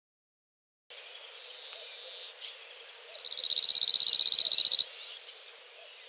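Birds chirping and singing. About three seconds in, a loud, rapid, buzzy trill joins them and lasts about a second and a half.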